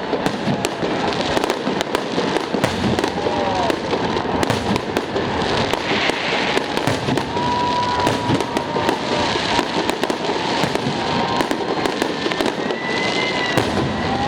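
Fireworks salute: a dense, unbroken crackling of bursting fireworks, with a few brief whistling tones over it in the middle and near the end.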